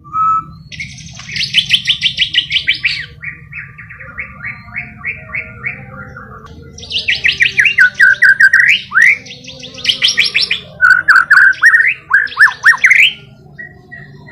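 White-rumped shama (murai batu) singing: fast runs of repeated chirps, then slower repeated notes, then loud phrases of rising and falling whistles with short pauses between them, over a faint low hum.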